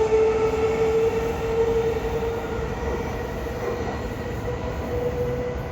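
E233-5000 series electric train pulling away, its inverter and traction motors giving a steady whine that rises slowly in pitch over the rumble of the wheels, gradually fading as the train draws off.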